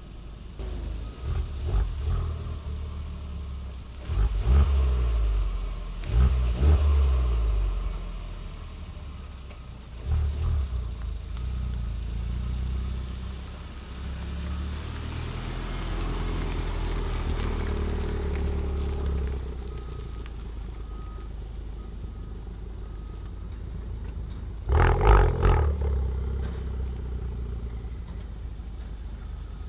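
Honda Civic Type R FK8's turbocharged 2.0-litre four-cylinder engine through a Remus front pipe and valved cat-back exhaust, with the valves fully open. It accelerates in several short hard pulls, then runs more steadily, with one loud short burst near the end.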